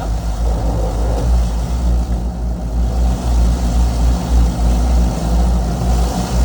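Steady low rumble of a car heard from inside the cabin: engine and road noise while it moves.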